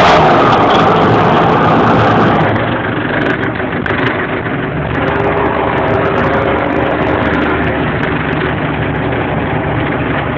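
John Deere 6820 tractor's six-cylinder diesel engine running with no muffler. It gets quieter about two and a half seconds in, then runs steadily.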